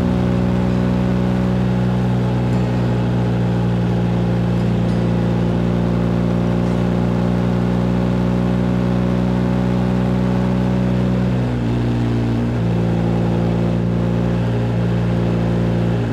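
Motorcycle engine running at a steady cruising speed, heard from on board with a steady rush of wind. Its pitch changes briefly about eleven seconds in and again near the end, as the throttle or gear changes.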